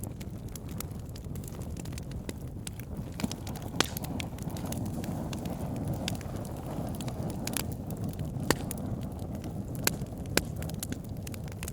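Wood fire burning, logs crackling with frequent sharp snaps and a few louder pops over a steady low rumble and hiss of the flames.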